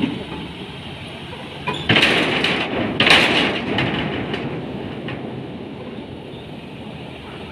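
Ro-ro ferry berthing: a steady mechanical rumble, then loud metallic clanking and rumbling that starts about two seconds in, peaks a second later and dies away slowly.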